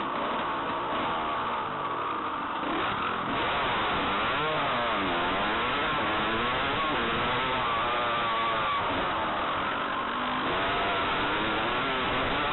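Motocross bike engine revving up and down as the bike is ridden around a dirt track: the pitch rises on the straights and drops into the corners several times.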